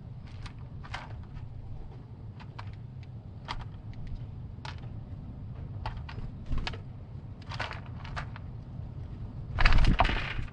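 Irregular short taps and clicks over a steady low rumble, with a louder, longer scuffling burst near the end.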